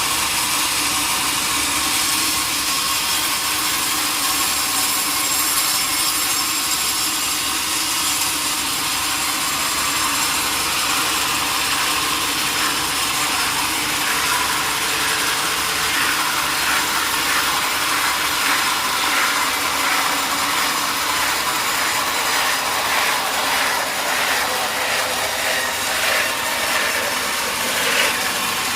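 Sawmill saw cutting through a large log: a steady, noisy, high-pitched sawing sound. From about halfway through, a regular pulsing joins it.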